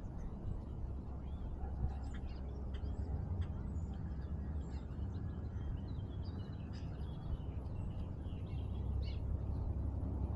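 Small birds chirping at intervals, over a steady low rumble.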